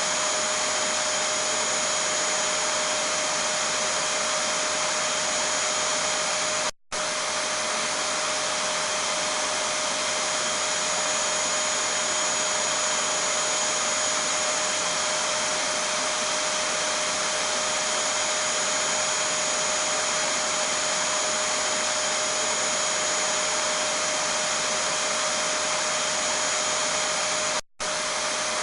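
Vacuum cleaner (hoover) running steadily: an even rush of air with a steady whine. It cuts out for a split second twice, once about seven seconds in and once near the end.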